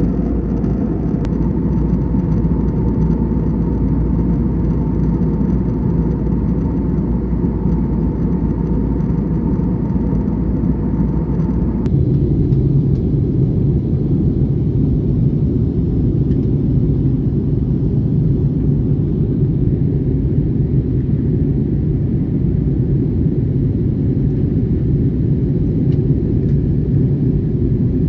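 Airbus A321 cabin noise: a steady, loud low rumble of the jet's engines heard from inside the passenger cabin. About twelve seconds in the sound changes abruptly: a faint steady tone stops and the low rumble grows a little deeper.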